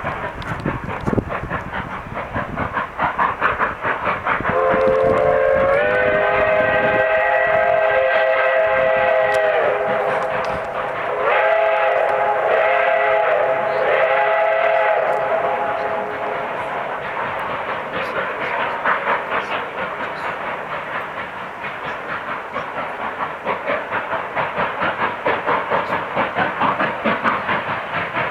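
Steam locomotive working under way with a steady rhythmic exhaust chuff, sounding its chime steam whistle: one long multi-note blast of about five seconds, then three shorter blasts. The chuffing grows louder near the end.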